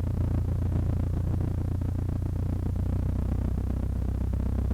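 Cessna 152's Lycoming O-235 four-cylinder engine at full power on the takeoff roll, a steady low drone heard in the cockpit.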